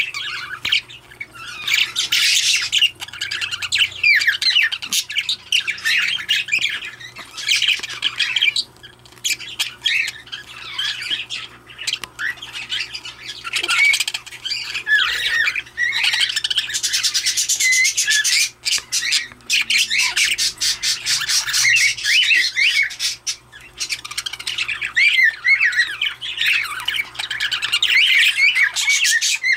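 A budgerigar chattering and warbling, with rapid chirps, squawky notes and clicks coming in bursts with short pauses.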